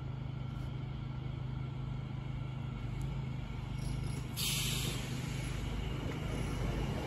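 A Class 345 electric train pulling into the platform: a steady low hum, with a hiss setting in about four seconds in, and the sound slowly growing louder as the train gets closer.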